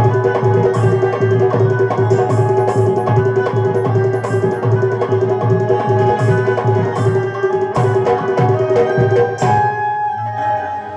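Instrumental passage of Rai folk music: a hand-drum beat of about three strokes a second under a held melody note. The drumming stops about nine and a half seconds in.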